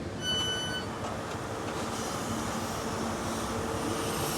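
Electronic door-warning beep on a passenger train, the last one ending about a second in, followed by the steady running rumble and low hum heard inside the train carriage.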